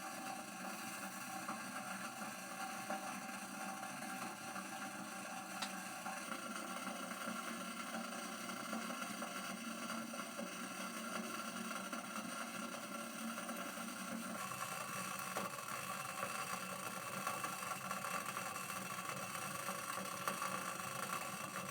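A steady machine hum made of several fixed tones over a hiss, changing pitch and character about two-thirds of the way through.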